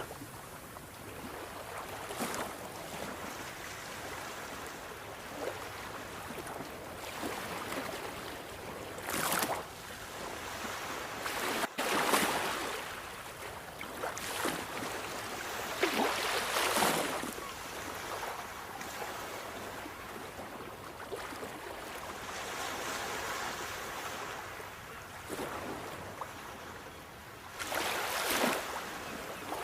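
Sea waves washing onto a shore: a steady rushing wash with four louder surges as waves break, spaced several seconds apart. A split-second dropout comes just before one of the surges near the middle.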